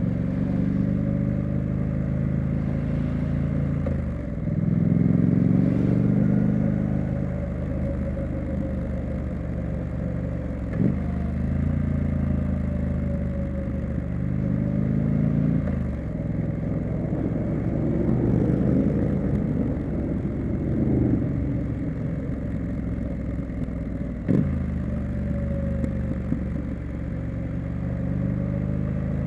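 Triumph Street Scrambler's 900 cc parallel-twin engine and exhaust under way, rising and falling with the throttle. Its pitch changes suddenly about four seconds in, near eleven and sixteen seconds, and again near the end, with a short click at some of these changes, as gears are shifted.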